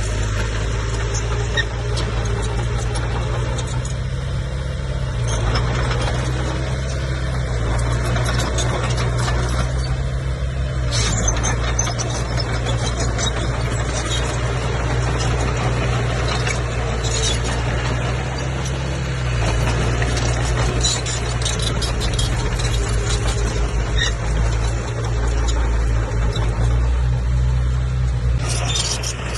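Komatsu bulldozer's diesel engine running steadily under load, its note shifting a few times, with frequent short clanks from the tracks and blade.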